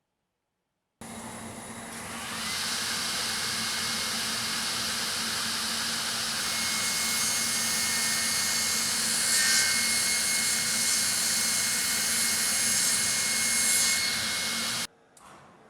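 Sliding table panel saw starting up, its blade and motor coming up to speed with a rising whine about a second in, then running steadily with a hum and a loud rushing noise. It cuts off suddenly near the end.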